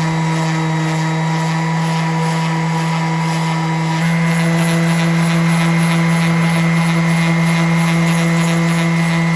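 Bauer 5-inch random orbital palm sander running with a steady electric-motor hum; about four seconds in its pitch and level step up slightly.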